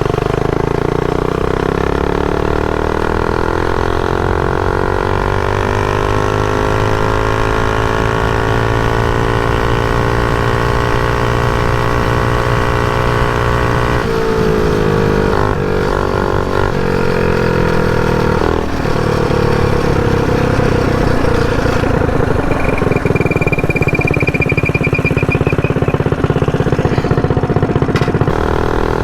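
Mini bike's single-cylinder four-stroke engine running under throttle while riding: the pitch climbs over the first few seconds and holds steady, drops and wavers around the middle, then runs steady again.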